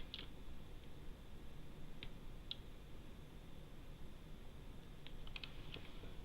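A few scattered computer keyboard keystrokes: one right at the start, two more after about two seconds, and a short cluster about five seconds in, over a faint steady low hum.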